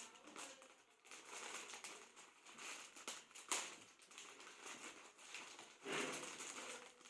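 Plastic packaging of an earplug pack crinkling as it is handled, in uneven rustles with a sharp click about three and a half seconds in.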